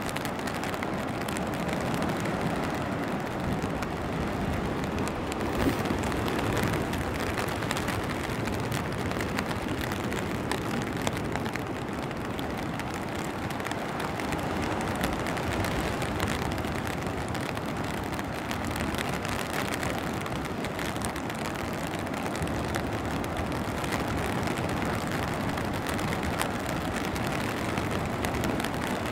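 Steady rain falling on the surrounding foliage and ground, a dense, even patter of drops over a low continuous rumble.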